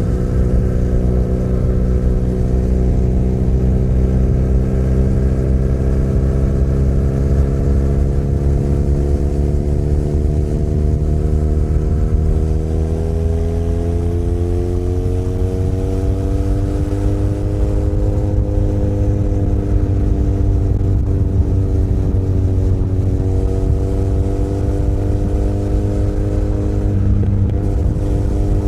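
Benelli Leoncino 500 Trail's parallel-twin engine running on the move, its pitch climbing gradually about halfway through as the bike speeds up, then easing a little and holding steady.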